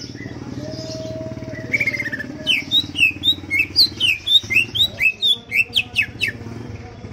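Green leafbird (cucak ijo) singing: a brief trill, then from about two and a half seconds in a fast run of about a dozen loud, sharp, varied chirps, over a steady low hum.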